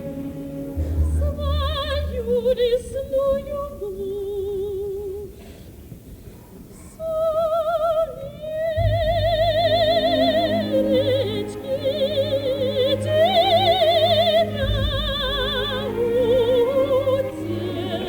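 Operatic soprano singing with vibrato, accompanied by a symphony orchestra; the voice drops to a quieter passage about five seconds in and comes back fuller about two seconds later.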